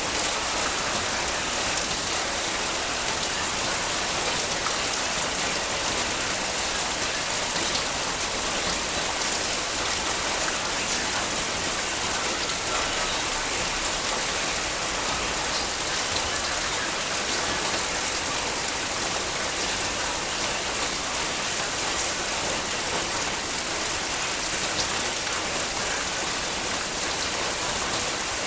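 Heavy rain falling steadily, a dense even hiss of drops with fine individual drop ticks.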